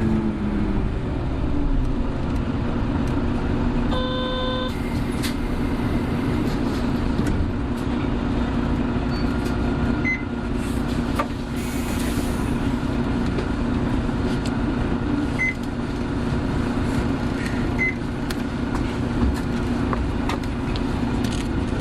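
Hino Blue Ribbon City Hybrid city bus under way, its engine running with a steady drone. A short electronic beep sounds about four seconds in.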